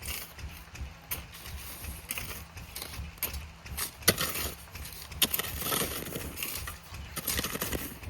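A diesel water-pump engine running with a steady low chug. Over it come scattered scrapes and sharp knocks of a spade cutting and dragging soil, the sharpest about 4 and 5 seconds in.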